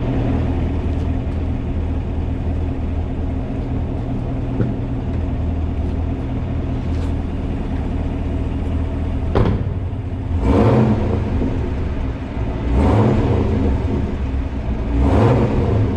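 Chevrolet Camaro ZL1's supercharged 6.2-litre V8 exhaust idling, echoing in a parking garage. A quick blip comes about nine seconds in, then the engine is revved three times, each rev rising and falling back to idle.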